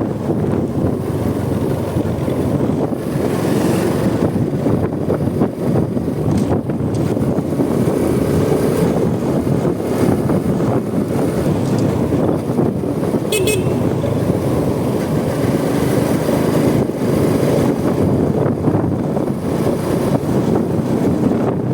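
Riding noise from a Honda Supra X 125 motorcycle's single-cylinder four-stroke engine, with wind rush and road and traffic noise. A vehicle horn toots among it, and a short high beep sounds a little past halfway.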